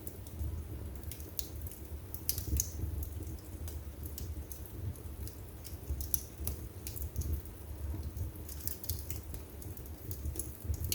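Wood fire burning in a fireplace: a low steady rumble of flames with irregular sharp crackles and pops from the burning wood.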